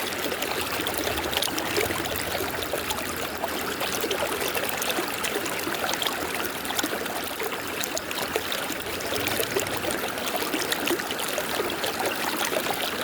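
River water running and splashing steadily over rocks, a dense rushing sound full of small splashes and gurgles.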